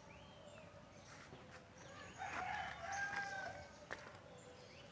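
A rooster crowing once, starting about two seconds in and lasting over a second, fairly faint in the background.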